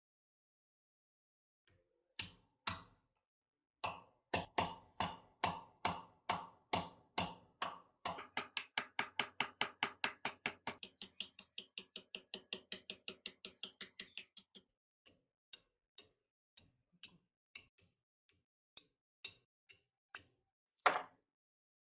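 Small metal ratchet mechanism clicking: a few single clicks, then a steady run that quickens to about four clicks a second, then slows to scattered clicks, with a louder double click near the end.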